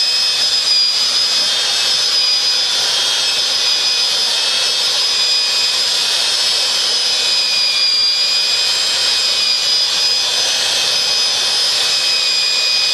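Electric drill mixer running steadily in a five-gallon pail, stirring sand into resin to make a sand slurry: a constant high whine that wavers slightly in pitch, over a hiss.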